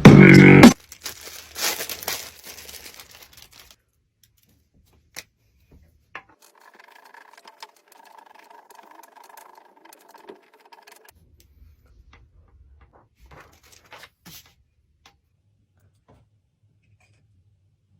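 Music that cuts off suddenly about a second in, then faint crinkling and rustling of packaging being handled. A faint steady tone holds for a few seconds in the middle, and a few light clicks come near the end.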